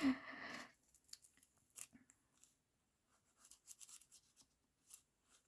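Scissors snipping thin tissue-like paper: a brief rustle of paper, then a few soft, scattered snips.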